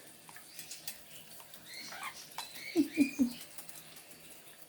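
Pet parrots bathing under a spray mist: light pattering and clicks, soft chirps about two seconds in, then three quick falling squeaks about three seconds in.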